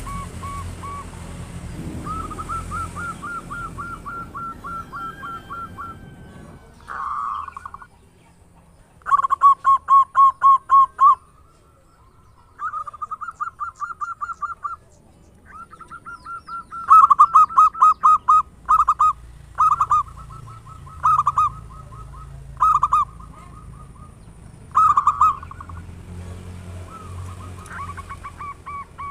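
Zebra dove (perkutut) cooing: runs of quick, repeated, clear notes in bursts of a few seconds, separated by short pauses.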